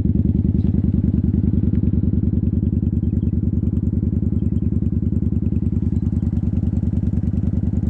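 Motorcycle engine running steadily with an even, rapid pulse.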